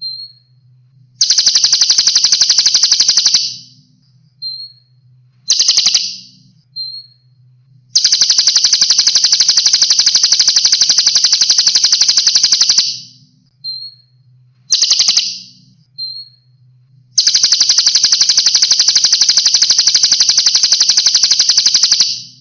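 A cage songbird singing long, rapid, evenly spaced trills of the 'tembakan' kind: three fast machine-like rolls, the first about two seconds long and the next two about five, with two short bursts and a few brief high whistled notes between them.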